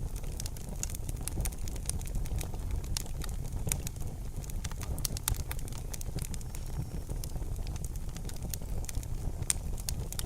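Fire burning in a fireplace: constant irregular crackling and popping over a low, steady rumble.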